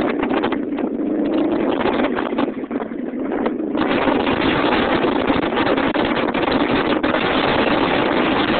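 Engine of a 2005 Subaru Impreza WRX STI, a turbocharged flat-four, running as the car drives along, mixed with road and wind noise heard from inside the car. About four seconds in the rush of noise grows fuller and louder.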